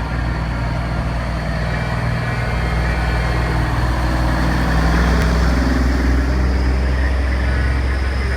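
Tow truck engine running steadily, a low, even engine sound.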